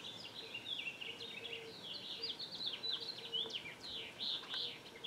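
Birds chirping continuously, many quick overlapping chirps and twitters.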